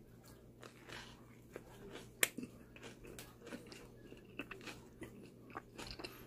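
A person biting into and chewing a fajita wrap, a flour tortilla filled with lettuce, red cabbage, grilled meat and shrimp, with irregular crunches and wet mouth clicks and one sharp click about two seconds in.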